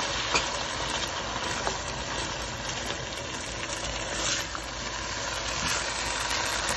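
Spiced onion, tomato and yogurt masala sizzling steadily in a nonstick frying pan as it is fried down, with a few light scrapes of a silicone spatula stirring it and a steady low hum underneath.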